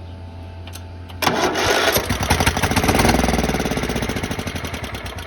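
Craftsman lawn tractor's 15.5 hp overhead-valve engine cranked by the starter about a second in and firing up on its first try after years of sitting, with a fast even beat; its sound gradually fades near the end.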